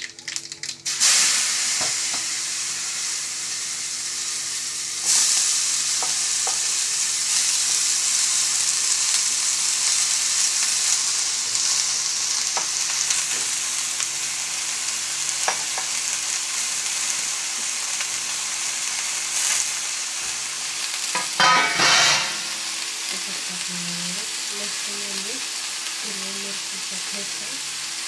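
Shredded cabbage frying in hot oil in an aluminium kadai, with a steady sizzle that jumps louder about a second in and again about five seconds in, and stirring in the pan. A short loud burst comes about three quarters of the way through, over a low steady hum.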